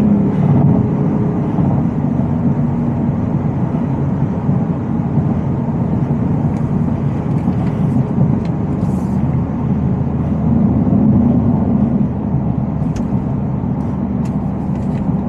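Supercharged 5.0-litre V8 of a Shelby F-150 Super Snake pickup running while driving, heard from inside the cab: a steady engine and road drone whose engine note swells about two-thirds of the way through.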